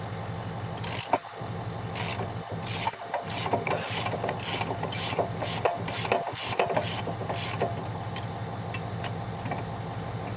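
A hand ratchet or wrench backing out a tight brake caliper bolt: a run of short scraping, clicking strokes, about two a second, that stops near the end. A steady low hum runs underneath.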